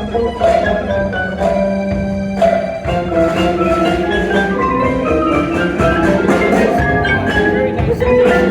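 Indoor winds band playing: held wind-instrument notes over marimba and other mallet percussion playing running notes.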